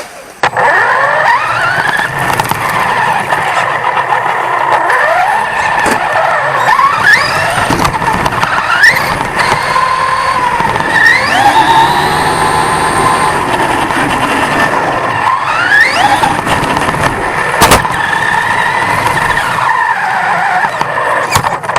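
1/10-scale off-road RC truck's motor and drivetrain whining, the pitch sweeping up again and again as it accelerates, over a rushing, rattling noise of the ride picked up on the truck. A few sharp knocks, the loudest about 18 seconds in.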